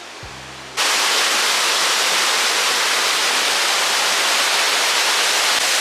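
Waterfall with water rushing in a loud, steady roar, starting abruptly about a second in.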